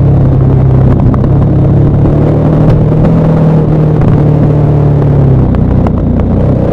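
KTM 1190 Adventure R's LC8 V-twin with a Wings aftermarket exhaust, running at steady revs on a downhill ride; the engine note eases off a little past five seconds in, and the revs start to climb again near the end.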